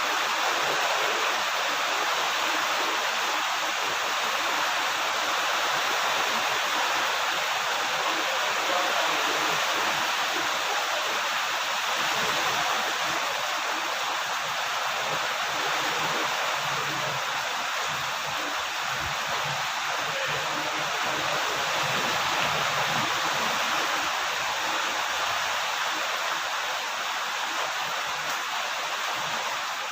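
Steady rain falling, a dense, even hiss with no letup.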